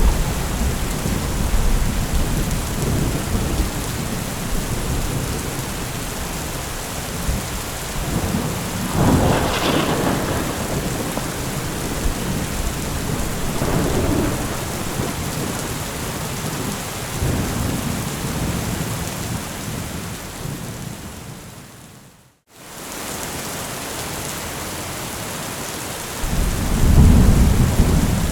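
Steady rain falling, with thunder rumbling low under it; a louder thunder peal comes about nine seconds in, and another deep rumble swells near the end. About three quarters of the way through, the sound fades briefly to silence and comes back, as at a loop's splice point.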